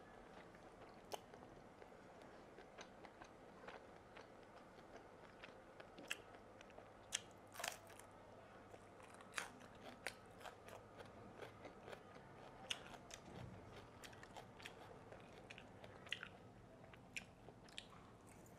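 A person chewing and biting fried fish balls filled with fish roe: faint, irregular wet clicks and smacks of the mouth, with one louder click about seven and a half seconds in.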